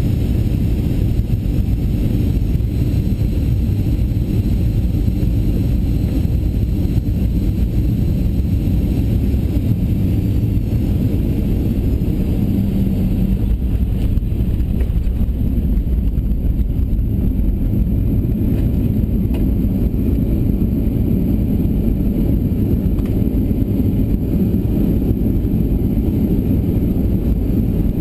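Steady low rumble of a Boeing 737-800 in the cabin: engine and airflow noise holding even throughout.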